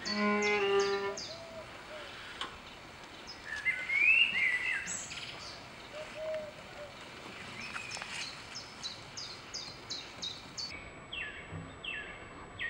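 Small birds chirping, with repeated short falling chirps throughout and a louder, bending call about four seconds in. A short two-note pitched tone sounds at the very start.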